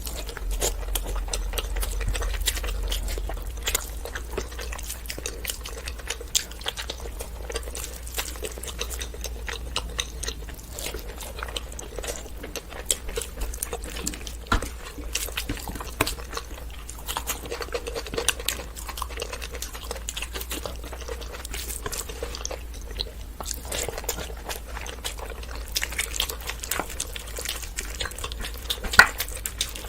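Close-miked chewing and wet mouth sounds of someone eating rice pulao and mutton curry: irregular smacks and small clicks, over a steady low hum.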